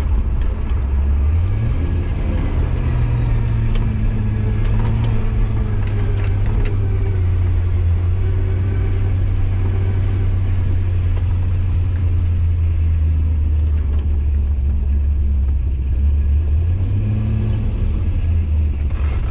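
Turbocharged 5.3-litre LS V8 (LC9) of a 1989 C4 Corvette running under light load while being driven gently. Its low drone rises in pitch about a second and a half in, drops around seven seconds in, and rises again near the end.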